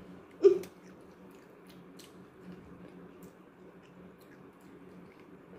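Biting into a cob of boiled sweet corn: one loud bite about half a second in, then soft chewing with faint moist clicks.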